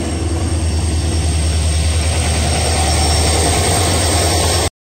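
Train running into the station: a loud, steady low rumble with a rushing noise that swells slightly, over a thin high whine. It cuts off suddenly near the end.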